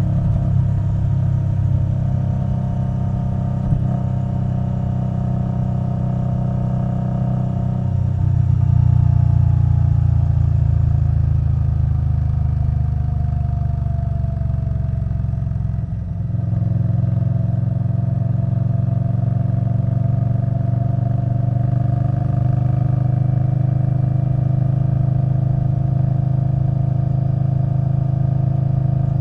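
Indian Scout Bobber Twenty's V-twin engine through V&H Twin Slash exhaust, running under way on the road. It gets louder about eight seconds in, its pitch sinks to a brief dip about halfway through, then it runs steadily again with the pitch slowly climbing.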